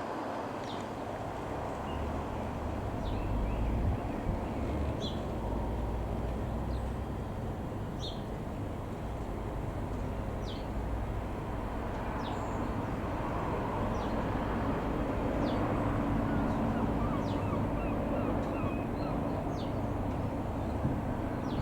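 Wind rumbling on the microphone over the steady drone of a distant light-aircraft engine, which swells a little in the second half. A bird gives short, high, falling chirps every second or two throughout.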